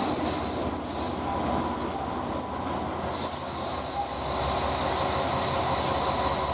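Train rolling along the rails with its wheels squealing in steady high-pitched tones over the rumble of running gear, with a brief louder squeal about four seconds in.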